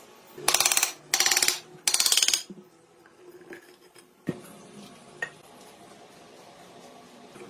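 Three short bursts of rapid metallic rattling from tool work on motorcycle parts, each about half a second long, followed by two single sharp knocks.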